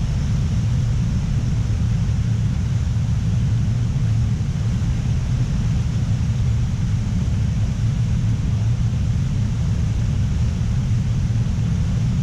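Waterfall rushing: a loud, steady, deep rumble of falling water, unbroken throughout.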